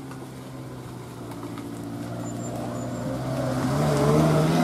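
A motor vehicle's engine approaching and growing steadily louder, its pitch climbing in the last second or so as it speeds up.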